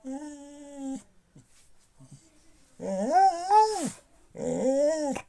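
A dog vocalizing in three drawn-out whining howls. The first is short and level, the second, about three seconds in, is the longest and loudest and wavers up and down, and the third arches up and down near the end, like a dog 'talking' back.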